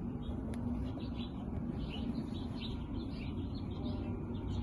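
Small birds chirping over and over, a quick run of short high chirps, over a low steady outdoor rumble.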